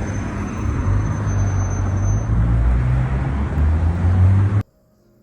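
Vehicle noise: a loud, steady low rumble of engine and road noise with a shifting low drone, cutting off suddenly about four and a half seconds in.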